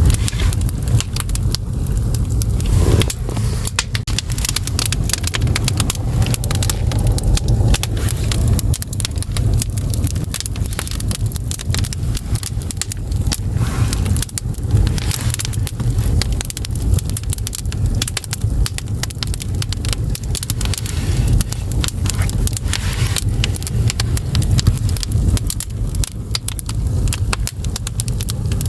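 Firewood burning in a Korean agungi firebox, crackling and popping continually over a steady low rumble.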